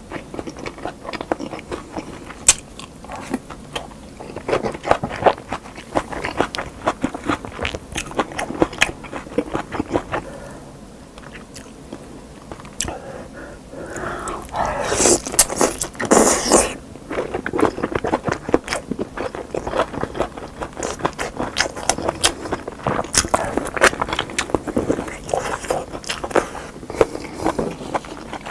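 Close-up mouth sounds of eating meat on the bone in kimchi stew with rice: steady wet chewing with many small clicks and smacks. About fifteen seconds in there is a louder stretch of sucking and gnawing as meat is bitten off a bone.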